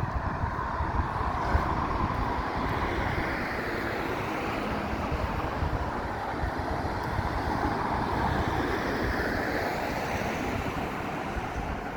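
Steady rushing of traffic on a wet road, swelling and fading gently as vehicles pass, with some wind on the microphone.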